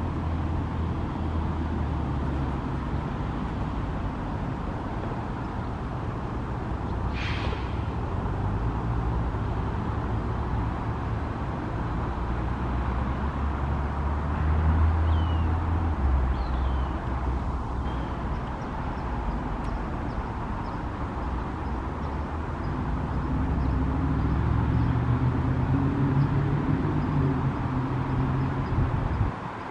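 Steady low rumble of vehicle traffic that swells twice, once in the middle and again near the end. There is a single sharp chirp-like sound about seven seconds in and a few faint high chirps a little after the middle.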